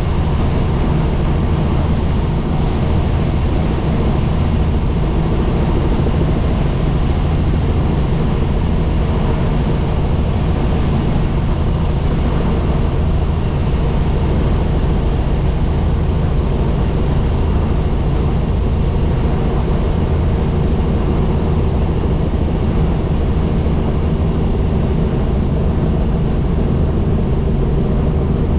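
Helicopter engine and rotor running steadily: a constant loud drone with several low steady hums under a wide rushing noise.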